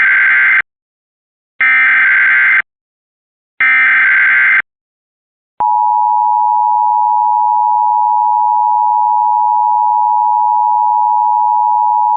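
Emergency alert header for a tornado warning: three short bursts of screeching digital data tones about a second apart (the first already under way), then a steady alert attention tone that starts about halfway through and holds without change.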